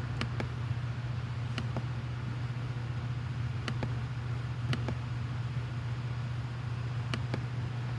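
A steady low hum with a few short, sharp clicks scattered through it.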